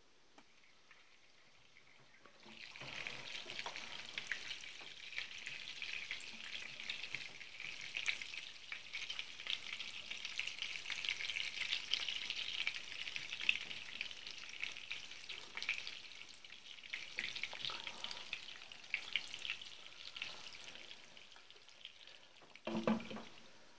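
Chicken cutlets frying in oil in a pan. The frying is faint under a glass lid at first, then sizzles and crackles with many small pops once the lid comes off about two and a half seconds in. Near the end there is a single knock as the lid goes back on, and the sizzle drops away.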